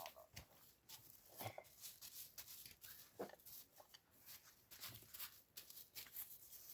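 Near silence, with faint scattered clicks and rustles of something being handled.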